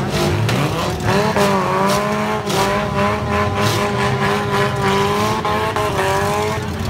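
Four-cylinder demolition derby car engine revved hard and held at high revs for about five seconds, its pitch wavering slightly, over the rumble of other cars running.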